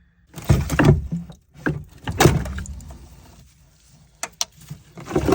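A run of knocks, scrapes and clicks from things being handled and moved in a car's trunk, with a few sharp clicks about four seconds in.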